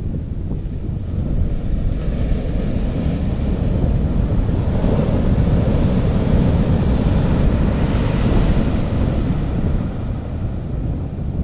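A sea wave breaking and washing up the beach: a hiss that swells from about two seconds in and fades near the end, over a steady rumble of wind on the microphone.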